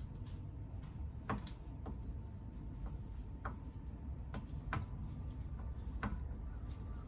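Scattered light clicks and taps of tools and engine parts being handled during disassembly, about six at uneven intervals, over a low steady hum.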